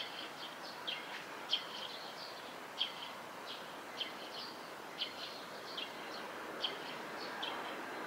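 A bird's short, high chirps, each falling slightly in pitch, repeated irregularly at a little more than one a second over the steady rush of flowing river water.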